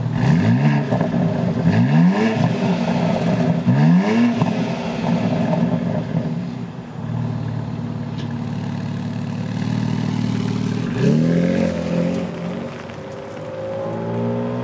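2023 BMW X4 M Competition's twin-turbo 3.0-litre inline-six revved three times in quick succession through its quad exhaust tips, settling back to idle between revs. There is another rev about eleven seconds in, then the engine note rises steadily as the car pulls away.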